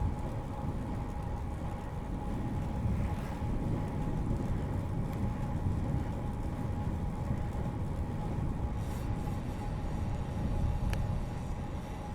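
Road bicycle rolling along a paved bike path: wind buffeting the microphone in a fluctuating low rumble, over a steady hum from the bike. A single sharp click near the end.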